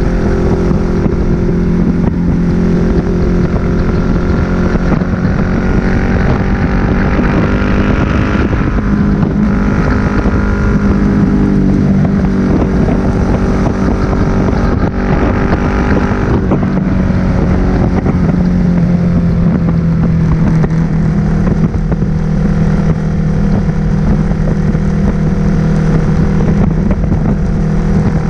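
Suzuki SV1000S's 90-degree V-twin engine running through a Leo Vince aftermarket exhaust, cruising at fairly steady revs. The engine note shifts a couple of times, around eight and fifteen seconds in, then settles back to a steady drone.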